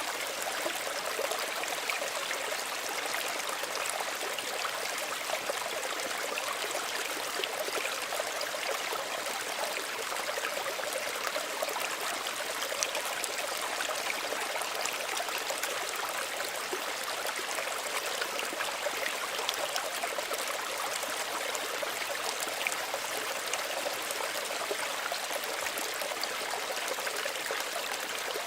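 Small stream running steadily over stones, an even trickling and splashing without pause.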